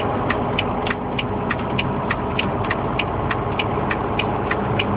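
Inside a semi-truck cab: the diesel engine runs with a steady drone while the turn-signal indicator clicks about three times a second.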